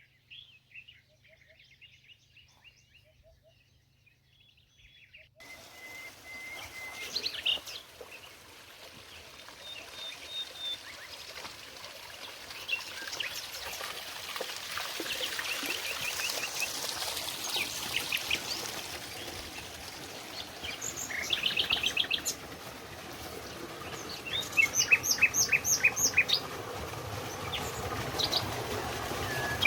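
Wild birds chirping: quick runs of short, high notes repeated several times, loudest in the last third. A steady background hiss sets in suddenly about five seconds in.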